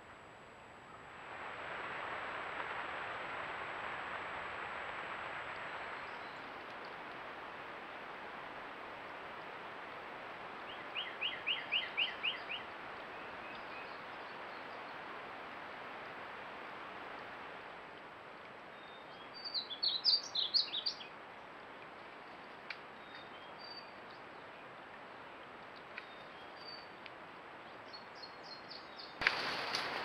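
Wild birds calling over a steady hiss: a quick run of about eight repeated notes, then a denser burst of chirps about twenty seconds in, with a few faint chirps after. A sharp click and a jump in the background sound come near the end.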